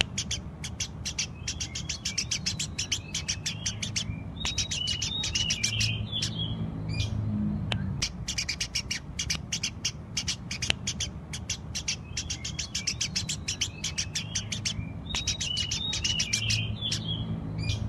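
Eurasian tree sparrow chirping lively and nonstop in fast runs of short, sharp chirps, broken twice by a brief twittering phrase.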